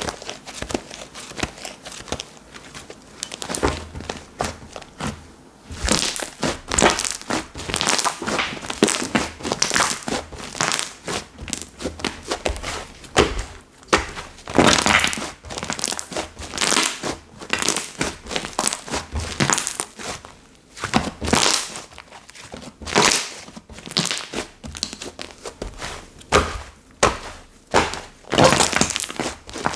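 Hands pressing, folding and squishing slime, a continuous run of crackling, popping squelches, with louder presses every second or two.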